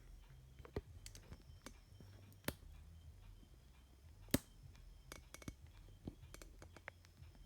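Scattered sharp clicks and taps of small objects being handled on a workbench, the loudest about four and a half seconds in and a quick run of them a little after five seconds, over a faint steady low hum.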